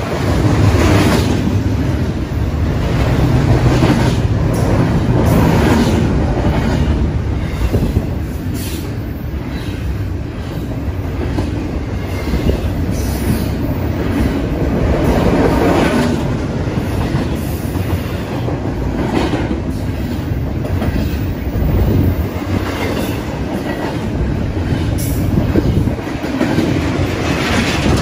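BNSF double-stack container train's well cars rolling past close by: a steady rumble of steel wheels on rail, broken by repeated clacks as the wheels pass.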